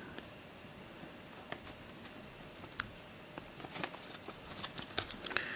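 Light handling noise from a plastic twisty puzzle being turned over in the hands: scattered faint clicks and small rustles, more of them toward the end.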